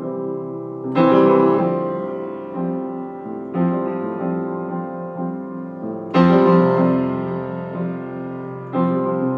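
Solo piano playing a slow song introduction: four sustained chords struck about two and a half seconds apart, each ringing out and fading.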